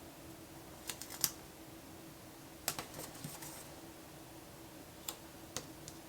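Scattered light clicks and taps of paper stickers being peeled and pressed onto a planner page, with a brief paper rustle partway through, over a faint steady hum.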